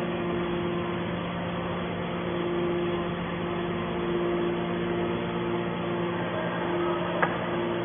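Hydraulic scrap-metal baler running: its motor and pump give a steady hum, with a single sharp click about seven seconds in.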